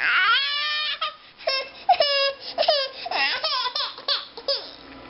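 A 13-month-old baby vocalizing in a string of short, high-pitched wails and squeals, many falling in pitch, dying down about four and a half seconds in.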